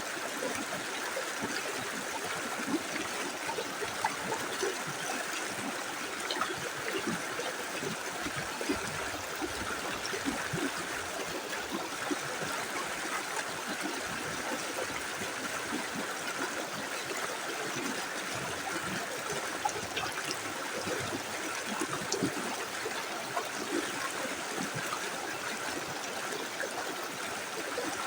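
Small river flowing steadily over stones, an even rushing with small gurgles and splashes throughout.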